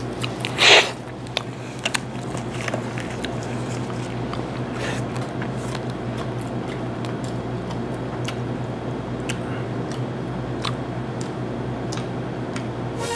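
Close-up eating of crab: a loud slurp as meat is sucked from a crab leg about a second in, then small clicks and cracks of shell and chewing. A steady low hum runs underneath.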